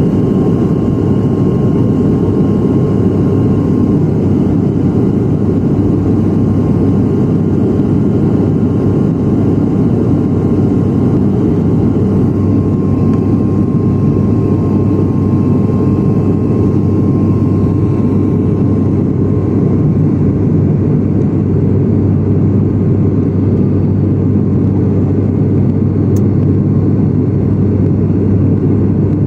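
Steady, loud low rumble of an airliner's cabin noise, engines and airflow, with a faint steady whine above it; the higher hiss thins out about two-thirds of the way through.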